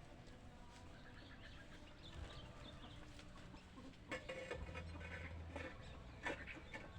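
Chickens clucking, with louder calls about four seconds in and again shortly before the end.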